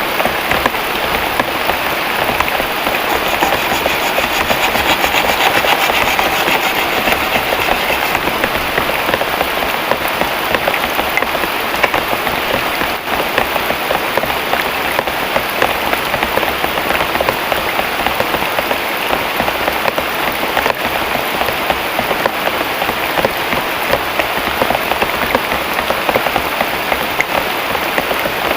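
Heavy rain pouring down steadily, a dense hiss of countless drops striking the ground and surfaces.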